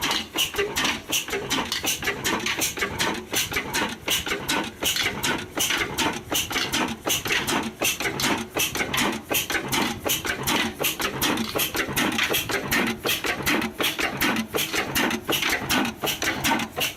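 Old 35 HP Ruston Hornsby diesel engine running, with a steady, even metallic clatter of about four to five beats a second.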